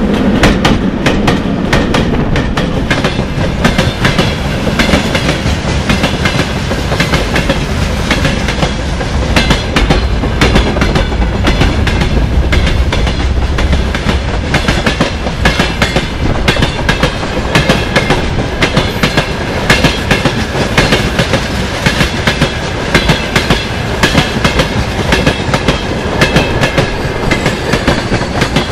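Freight train running past, its wagon wheels clacking rapidly and continuously over the rail joints, with a faint steady high ring from the wheels or rails from about the middle on.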